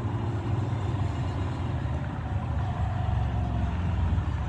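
Motor traffic on a nearby street: a steady low engine rumble that grows a little louder in the second half.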